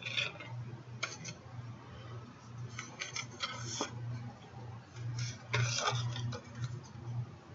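Card stock being cut and handled: a series of light clicks and short scraping rustles in irregular clusters, over a faint steady low hum.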